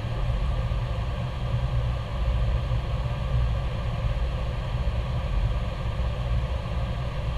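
Steady low rumble with an even hiss above it, the running noise of an Airbus A321 heard inside the cockpit.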